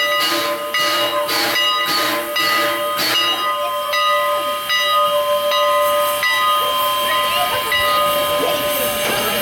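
Strasburg Rail Road Engine 89, a 2-6-0 steam locomotive, chuffing about twice a second as it works. The exhaust beats stop about three seconds in, leaving a steady steam hiss with a few steady tones over it.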